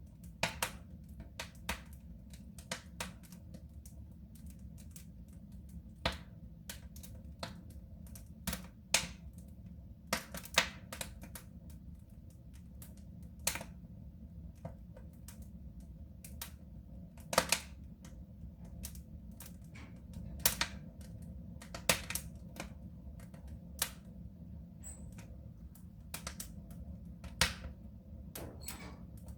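Wood fire in a soapstone stove, crackling: irregular sharp pops and snaps, a few louder ones, over a steady low rumble of the burning fire.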